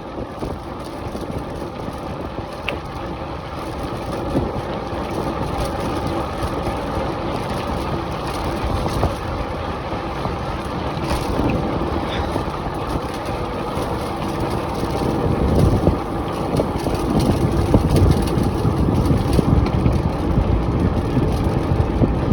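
Wind buffeting the microphone over the rumble of bike tyres on a bumpy track while riding fast. It gets louder and heavier over the last several seconds.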